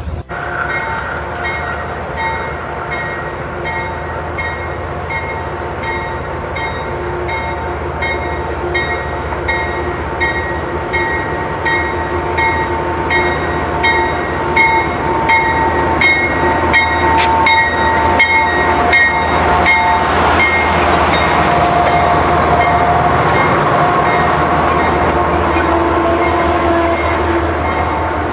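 Amtrak passenger train's diesel locomotive running at the station, its bell ringing steadily about twice a second over the engine. The engine and rail noise grow louder in the second half as the train gets under way.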